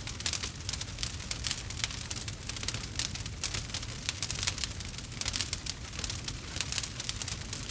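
Campfire burning, the wood crackling with many quick pops and snaps over a steady low rumble.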